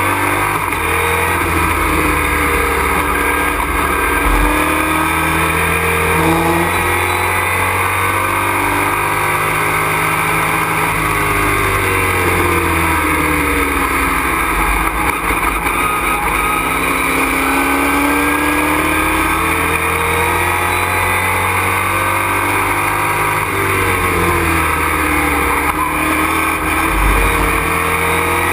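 A race truck's engine heard from inside the cockpit at racing speed, loud and continuous. Its revs drop and climb again twice, about midway and near the end, through braking, shifts and corners.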